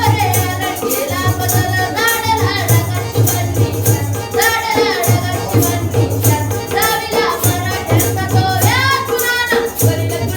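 A child singing a Marathi powada (heroic ballad) in a strong, bending melodic line, over a fast, steady percussion accompaniment with jingling, rattle-like strokes.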